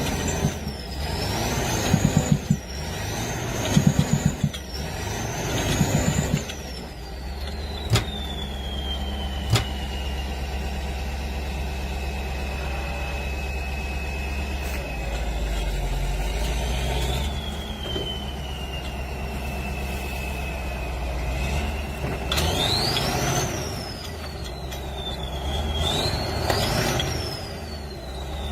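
Vehicle siren wailing. It rises and falls quickly several times, then winds down slowly and rises again, over a steady low engine rumble. Two sharp clicks come near the middle.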